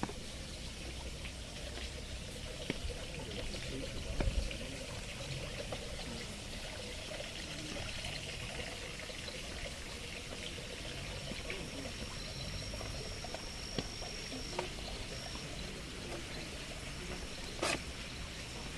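Stream water trickling and splashing steadily. A thin high steady tone sounds for a few seconds around the middle, and a sharp click comes near the end.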